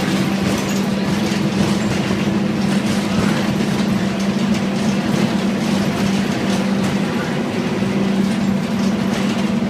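Scania N230UD double-decker bus running steadily, its five-cylinder diesel engine and drivetrain giving a constant, unchanging hum.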